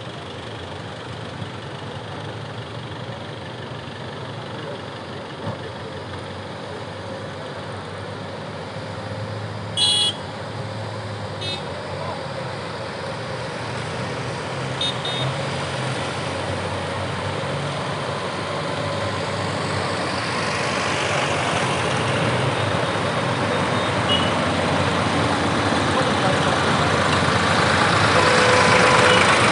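Tractor engines running, growing steadily louder, with a short vehicle horn toot about ten seconds in.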